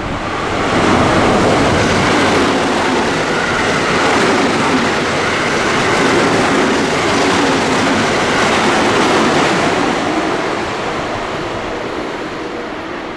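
Train passing at speed, a loud rushing rumble of wheels on rail with some clickety-clack. It swells about a second in, holds, then fades away near the end.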